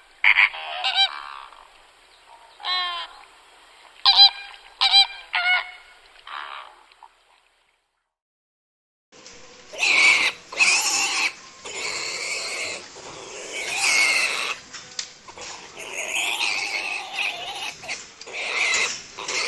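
Animal calls from two separate clips. First come a handful of short, pitched calls over about seven seconds, then a gap of about two seconds. From about nine seconds in, many overlapping calls sound at once, as from a flock or herd.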